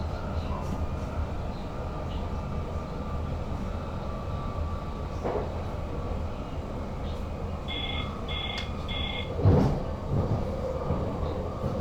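Steady running rumble of an SLT electric multiple unit heard inside the driver's cab. About eight seconds in come three short, evenly spaced electronic beeps, followed by a single loud thud.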